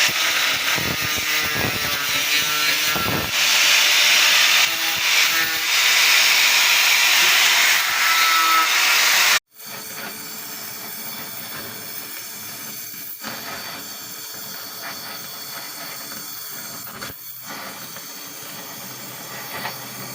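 Gas-welding torch flame hissing steadily and loudly. About halfway through it cuts off suddenly and a quieter steady hiss follows.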